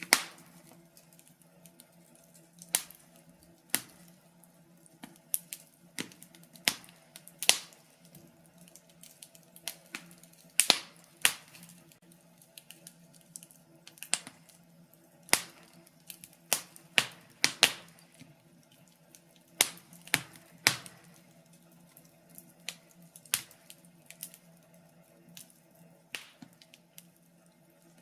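Fireplace fire crackling, with irregular sharp pops and snaps of varying loudness over a faint steady hum.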